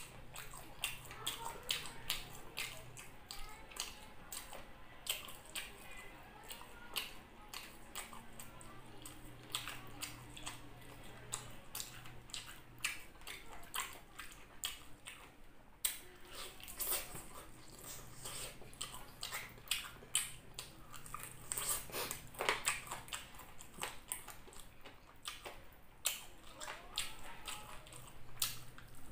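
Close-miked eating sounds: open-mouthed chewing of masala-coated chicken, with many wet smacks and clicks, and fingers pulling meat off a chicken drumstick.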